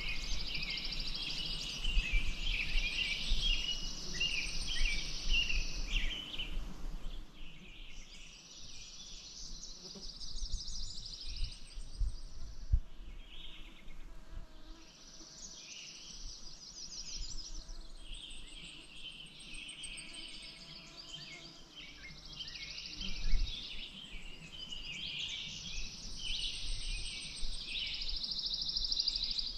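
Songbirds singing outdoors: long, rapid high trills of several seconds each, four of them with short gaps between, over scattered shorter chirps. A few low thumps, the loudest about two-thirds of the way in.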